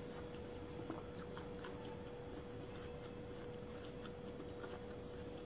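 Soft wet mouth sounds and small clicks of someone chewing fruit with the mouth closed, over a steady hum.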